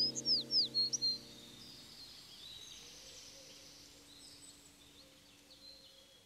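A bird chirping several quick, high, falling notes during the first second, over a held music chord that fades out. Then a faint, steady outdoor background.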